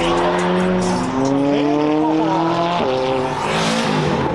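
Several car engines revving and accelerating away at once, their overlapping pitches rising and falling.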